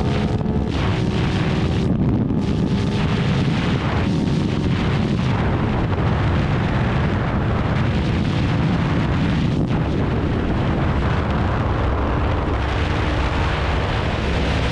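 Ducati Hypermotard's L-twin engine running while riding at speed, largely swamped by heavy wind rush on the microphone. The engine's pitch shows plainly only in the first second and again near the end.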